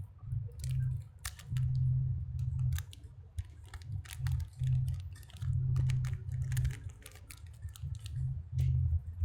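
Many light, irregular clicks and taps of small plastic and metal parts being handled, over a low hum that comes and goes.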